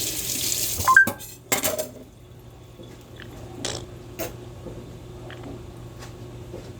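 Kitchen tap running, shut off about a second in, followed by scattered clinks and knocks of dishes and utensils.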